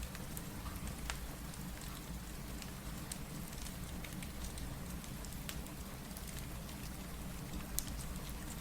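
Steady rain with a low rumble underneath, mixed with scattered sharp crackles and pops from a wood fire; one louder pop near the end.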